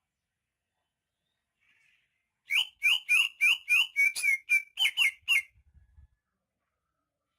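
Greater green leafbird (cucak ijo, Banyuwangi type) singing a fast, lively burst of about a dozen sharp down-slurred notes, roughly four a second. The burst starts about two and a half seconds in and lasts about three seconds.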